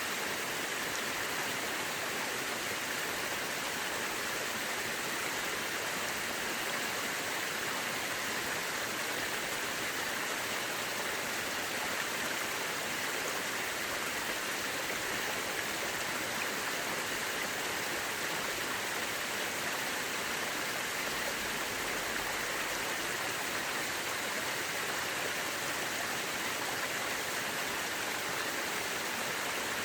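Mountain river rushing over rocks: a steady, even wash of flowing water.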